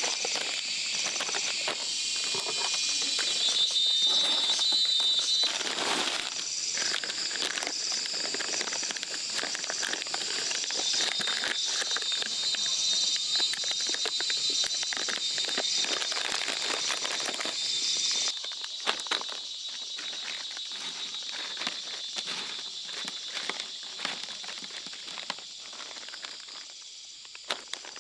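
Steady high insect buzzing and chirring with frequent close rustling and crackling clicks; the buzzing drops away about two-thirds of the way through, leaving mostly the rustling.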